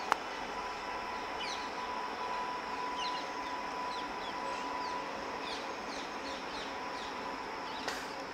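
Birds chirping, many short, quickly falling notes repeating over a steady hum. A sharp click sounds just as it begins, and a smaller one near the end.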